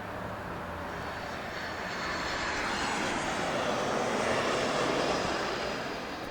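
Jet airliner's engines passing: a rushing roar with a faint high whine that swells to its loudest about four to five seconds in, then starts to fade.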